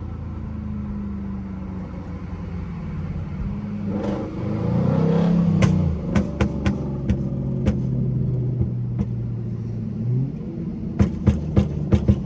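Dodge Charger SXT's 3.6-litre V6 on a pop tune: the engine revs up about four seconds in, then the exhaust crackles with a string of sharp pops as the throttle closes, and a second, quicker run of pops comes near the end.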